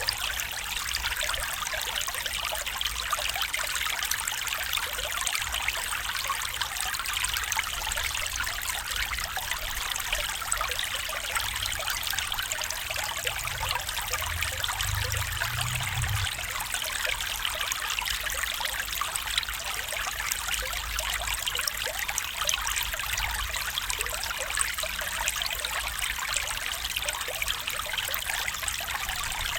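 A stream trickling and babbling steadily, a continuous splashing hiss of running water. A brief low rumble sits beneath it a little past the middle.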